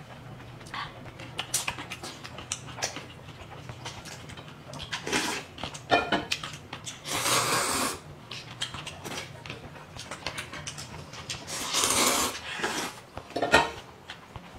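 Eating at a table: short clicks of utensils on dishes, with several louder noisy bursts of eating sounds over a steady low hum.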